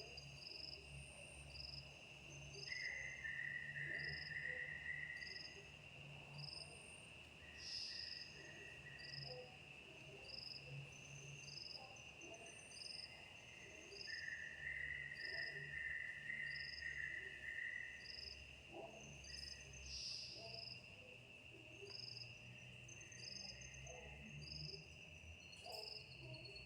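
Night insects calling: a steady high-pitched drone with short, regular chirps a little more than once a second over it, and two longer buzzing trills, one about three seconds in and one from about fourteen to eighteen seconds.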